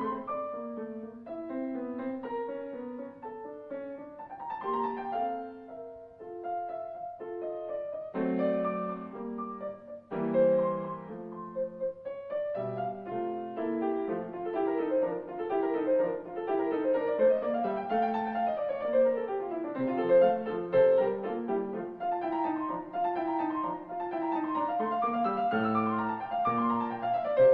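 Solo piano music, a flowing melody with rising and falling runs of notes.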